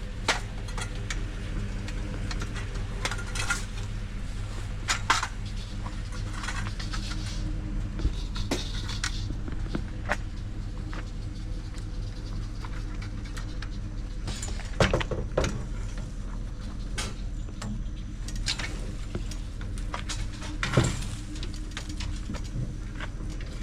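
Vehicle running with a steady low rumble, overlaid by scattered clinks and rattles, a few of them sharper, like loose metal knocking about.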